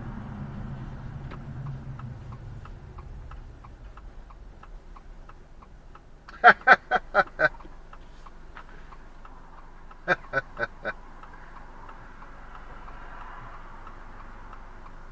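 A car's turn signal clicking steadily, about two clicks a second. It is broken twice by a quick run of short, loud, pitched blasts: six, then four a few seconds later.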